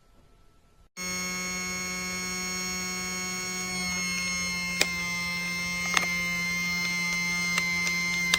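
Toy cordless vacuum cleaner's small electric motor running with a steady buzzing hum, which cuts in abruptly about a second in. A few sharp clicks come over it in the second half.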